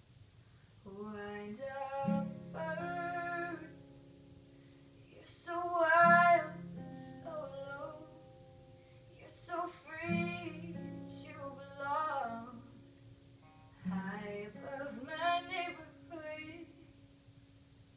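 A teenage girl singing a slow song to her own acoustic guitar, in several sung phrases separated by short pauses, over guitar chords struck about every four seconds.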